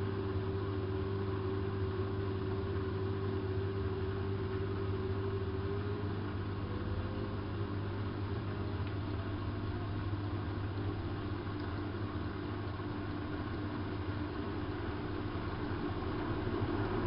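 Hanseatic HWM814A3D (Vestel-built) washing machine running with a steady low hum; about six seconds in, its motor whine starts rising in pitch and keeps climbing for several seconds as the drum speeds up.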